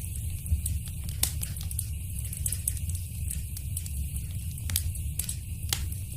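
Wood fire crackling in a fireplace: a steady low rumble with sharp pops and snaps at irregular moments, two louder pops about half a second and a second in.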